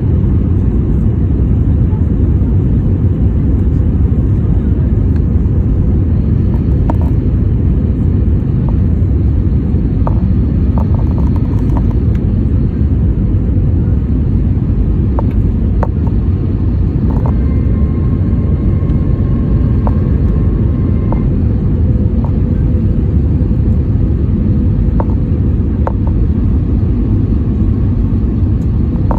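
Airliner cabin noise in flight: a steady, loud, low rumble of jet engines and rushing air, heard from inside the cabin.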